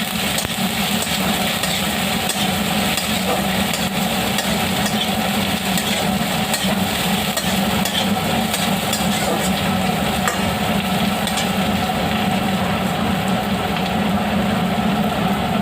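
Onions frying in hot oil in a kadai, sizzling steadily, with occasional small clicks of stirring. A steady low hum runs underneath.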